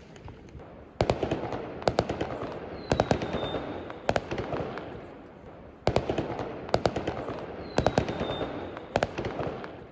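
Fireworks going off: fainter scattered cracks, then about a second in dense volleys of sharp bangs over a continuous crackle that swell and ease twice, with a brief high whistle in each swell.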